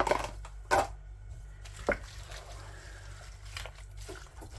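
Broccoli florets being tipped into a pan of thick, simmering curry sauce: soft squelching with a few sharp knocks, the clearest about a second and two seconds in.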